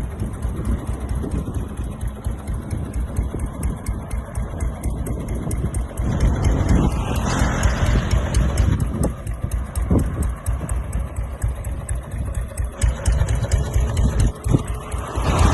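BSA WM20's single-cylinder side-valve engine running at a steady tickover, with an even beat of firing pulses that grows louder about six seconds in.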